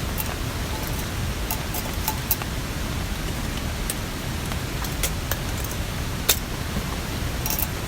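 Steady rushing noise of rain and a mountain stream, with scattered sharp ticks, one louder about six seconds in.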